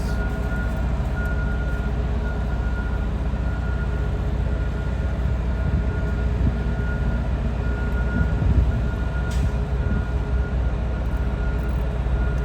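Steady low rumble of an idling engine, with a thin whine above it that comes and goes.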